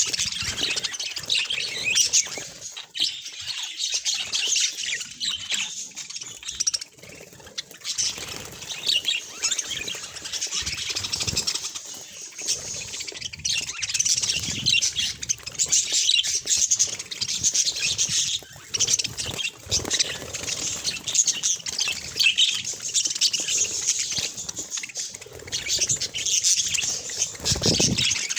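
A group of budgerigars chirping and chattering continuously, many rapid high calls overlapping.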